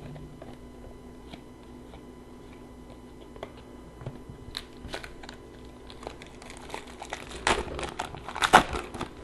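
Foil card-pack wrapper crinkling as it is torn open and handled. Light ticks of handling come first; the crinkling builds about halfway through and is loudest near the end.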